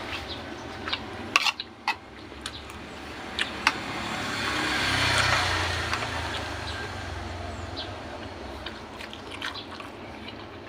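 A passing vehicle: a broad noise that rises, is loudest about five seconds in, and fades away. Scattered light clicks and taps over a steady low hum.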